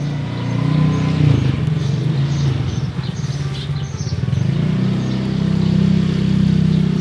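Small birds chirping repeatedly over a loud, steady low engine hum that swells in the second half.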